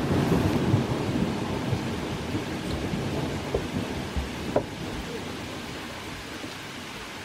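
Thunder rumbling and slowly dying away over falling rain.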